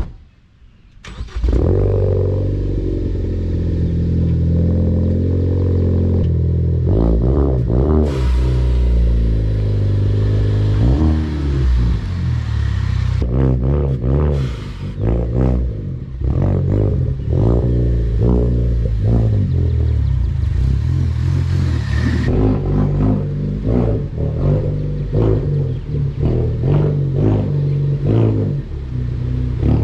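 Car engine, plausibly the Ford Focus ST's, starting up about a second in and running loudly with shifting revs.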